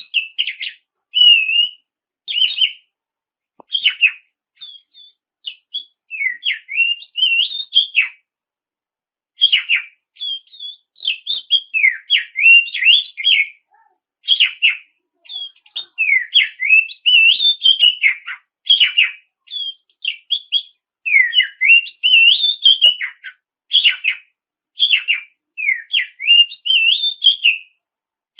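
Oriental magpie-robin singing in full voice: a rapid, varied run of whistled phrases and quick sweeping notes, delivered in bursts with brief gaps and one longer pause about eight seconds in.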